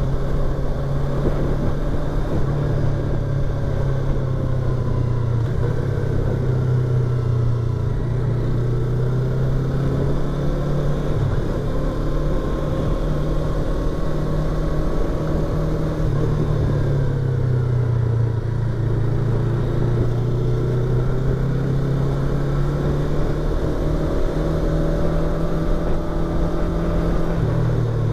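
Yamaha YZF-R25's 249 cc parallel-twin engine and exhaust while riding, heard from inside the rider's helmet over steady wind noise. The engine pitch rises and falls several times as the bike speeds up and slows.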